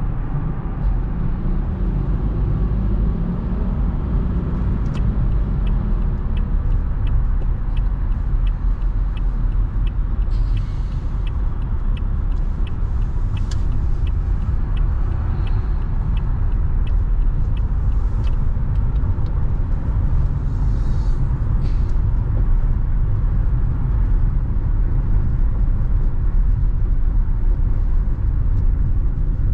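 Steady low rumble of a car being driven, tyre and engine noise. For about twelve seconds in the middle, a car turn signal clicks about twice a second.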